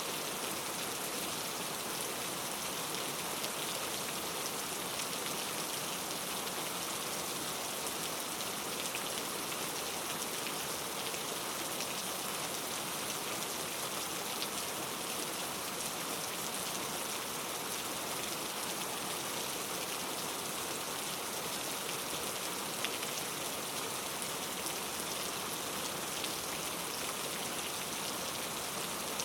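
Steady rain falling, an even hiss with faint individual drop ticks, no thunder.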